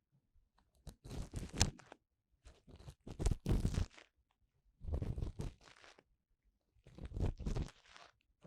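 Ear-cleaning tool scraping and rubbing inside the silicone ear of a 3Dio binaural microphone: four slow, scratchy, crunchy strokes about two seconds apart, with quiet between them.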